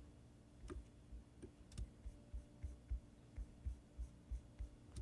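Faint, regular soft taps, about three a second, with a few sharper clicks: computer mouse and keyboard being worked while a 3D model is scaled in slicer software.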